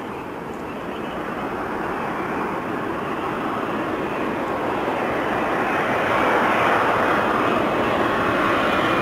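Jet airliner engine noise, a steady rushing that grows steadily louder as the aircraft approaches.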